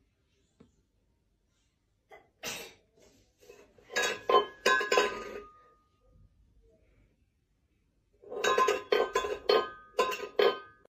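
Light metallic jingling in three short bursts of quick clicks with a brief ringing tone; the last and longest burst comes near the end.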